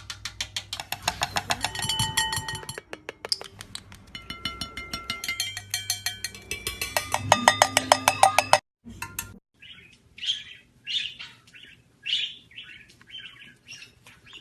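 Rapid, even clicking mixed with short whistled tones for the first two-thirds. After an abrupt break come a parrot's short chirping calls, about two a second.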